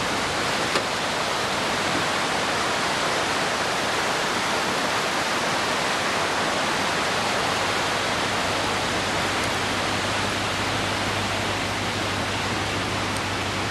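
Steady rush of fast-flowing floodwater, an even, loud roar of water with no break.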